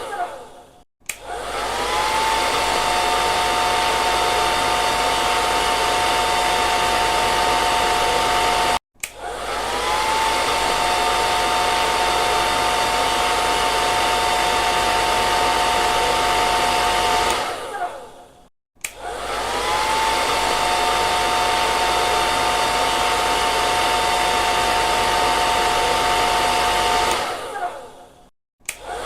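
Hair dryer running with a steady rush of air and a steady two-tone whine. Three times it cuts out briefly and starts again, the whine rising as the motor spins back up; twice it winds down before cutting out, the second time just before the end.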